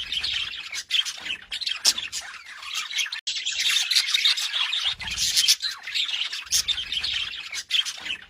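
Budgerigars warbling and chattering: a dense, fast run of chirps and squawks with no pause, except for a brief break a few seconds in.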